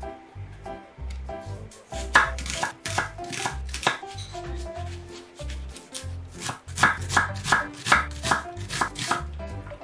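Knife chopping food on a cutting board in quick runs of sharp strikes, over background music with a steady bass beat.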